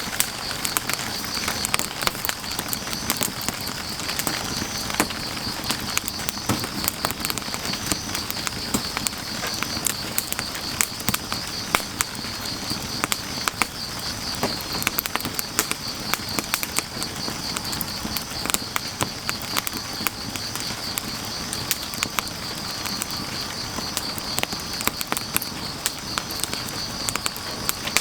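Firewood fire crackling with frequent sharp pops, over a steady hiss of rain, with grass insects keeping up a continuous high, pulsing chirr.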